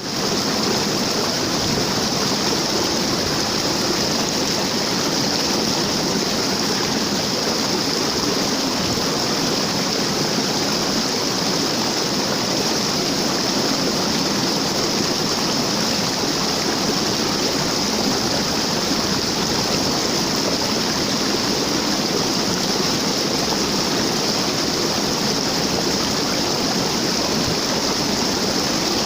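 Waterfall: a steady, unbroken rush of falling water, hissy and even throughout.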